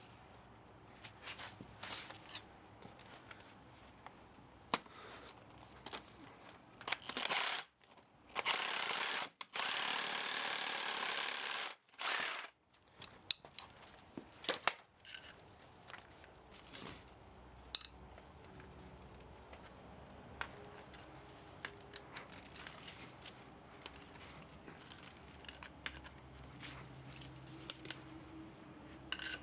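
Hand tools clicking and tapping on metal parts while an electric motor is taken apart for scrap, with a loud rasping noise for a few seconds midway.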